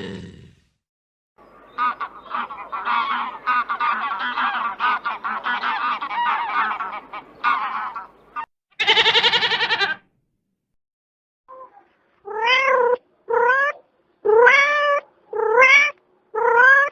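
A string of animal calls: a long run of rapid chattering, then one short buzzy call, then five short calls that each rise in pitch.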